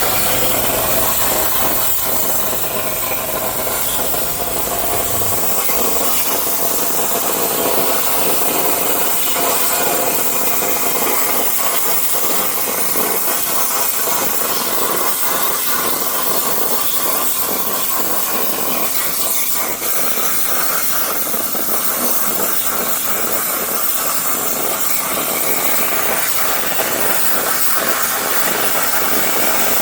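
Everlast 82i plasma torch cutting sheet steel on a CNC table: a steady, loud hiss with faint whining tones. A low hum underneath stops about five seconds in.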